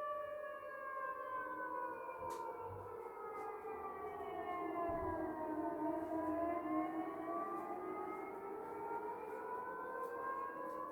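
Air-raid siren wailing: its pitch falls slowly for about six seconds, then rises again.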